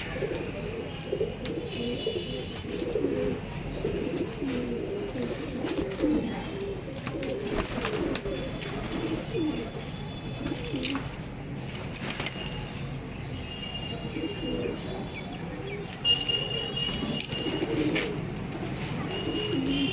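Several domestic pigeons cooing over one another, a continuous overlapping run of low warbling coos, with scattered wing flaps and a few short high chirps.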